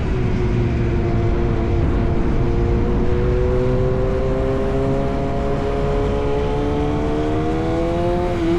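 Yamaha R1 inline-four through an SC-Project exhaust, running at steady cruising revs and rising slowly in pitch as the bike gathers speed, then dropping back briefly near the end as the throttle is eased or a gear changes.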